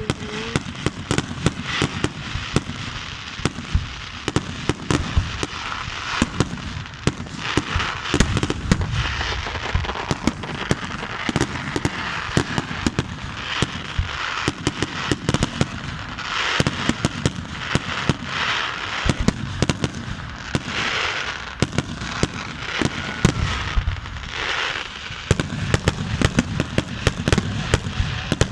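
Fireworks going off: many sharp bangs and pops in quick succession, irregular and overlapping, with stretches of hissing noise between them.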